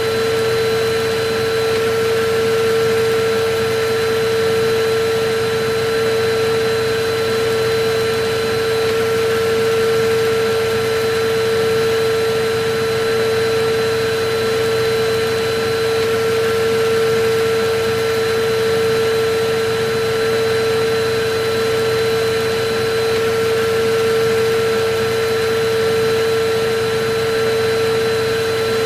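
Electric vacuum cleaner running steadily: an even rushing noise with a constant whine.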